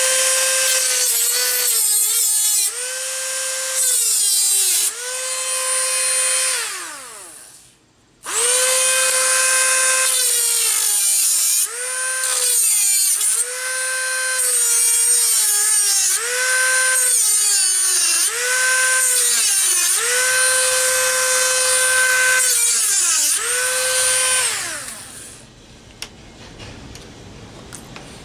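Black & Decker electric power tool motor running in long runs, its pitch sagging again and again as it bogs under load and then recovering. It stops briefly about eight seconds in, starts again, and winds down near the end.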